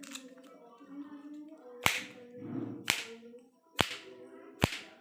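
Sharp paper snaps, four of them about a second apart, as the folded paper origami bird is worked.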